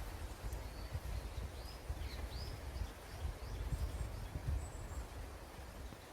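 Wild birds calling in a forest: a quick series of short, curving chirps from about half a second to three and a half seconds in, then a few faint high notes. Under them runs a steady low rumble of wind buffeting the microphone.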